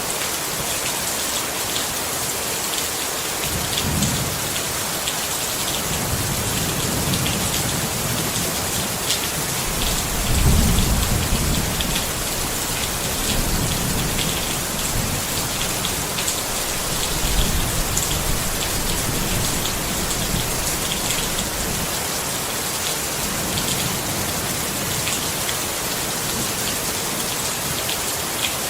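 Steady rain pattering on a tent, with individual drops ticking on the fabric. Thunder rumbles low several times, loudest about ten seconds in and again around seventeen seconds.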